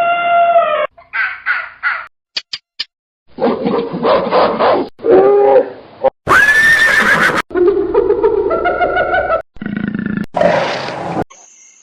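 A run of about eight different wild animal calls, each one cut off abruptly with a short silence before the next: pitched cries, harsher roar-like calls and one high call that rises and then levels off.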